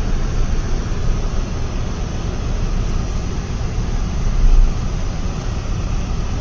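Road and engine noise inside a moving car's cabin: a steady rumble, with a low bump about four and a half seconds in.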